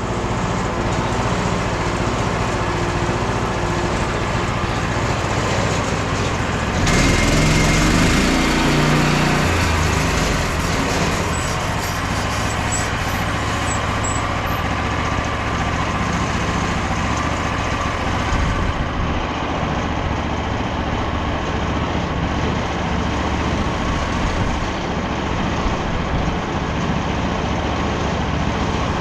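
Frontier OS27 portable band sawmill running on its petrol engine as the band blade saws through a larch log. The engine gets louder about seven seconds in and then holds steady through the cut.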